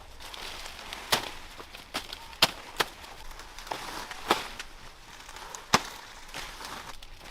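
Chopping: about half a dozen sharp strokes of a blade at uneven intervals, with a few lighter knocks between them.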